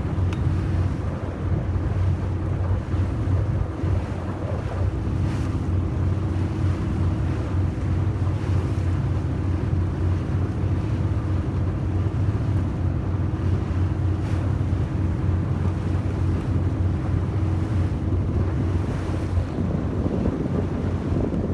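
Steady low drone of a yakatabune's engine under way, with wind buffeting the microphone and water noise against the hull.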